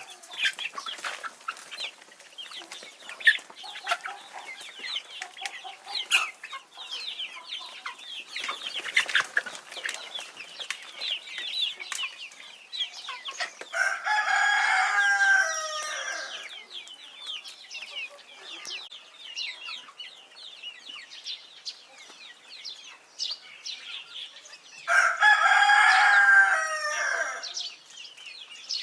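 A flock of chickens clucking and calling, with a rooster crowing twice: once about halfway through and once near the end.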